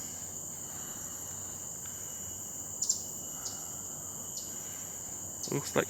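Steady, high-pitched chirring of forest insects, a continuous drone.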